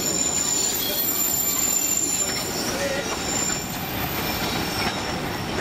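Narrow-gauge scenic railway train rolling steadily, the steady noise of the running train heard from an open-air passenger car, with a high-pitched squeal from the steel wheels on the rails.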